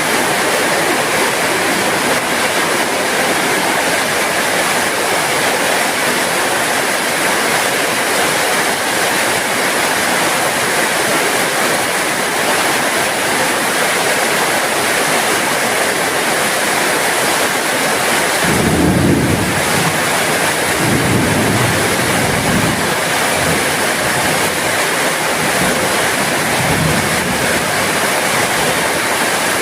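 Heavy rain falling steadily, a dense even hiss. About two-thirds of the way through, a low rumble swells for a few seconds and comes back briefly near the end.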